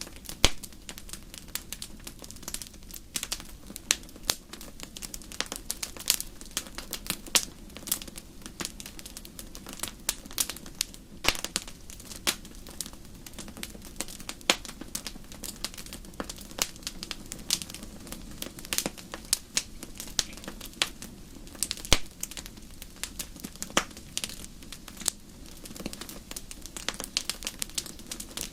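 Crackling bonfire: irregular sharp pops and snaps, several a second and uneven in loudness, over a steady low hiss of burning.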